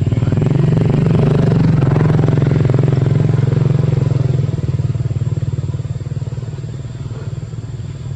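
A small engine running with a fast, even pulse, loudest for the first few seconds and easing down a little about halfway through.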